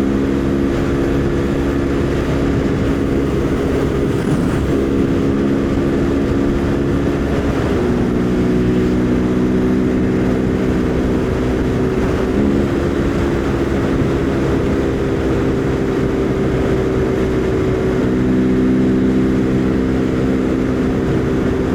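Husqvarna Svartpilen 401's single-cylinder engine running steadily at cruising speed, with wind noise; its pitch shifts slightly a few times.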